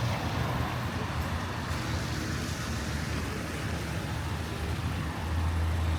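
Road traffic noise: a steady hum of passing vehicles, with a deeper engine drone coming in near the end.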